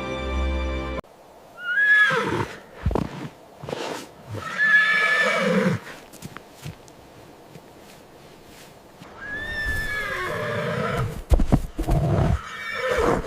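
Music stops abruptly about a second in, then a horse neighs three times, each whinny a high call that rises and falls away, with a few sharp knocks near the end.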